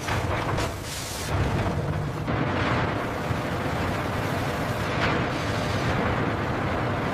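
Loud, continuous rumbling industrial noise with hiss, and a brief sharp crack about five seconds in.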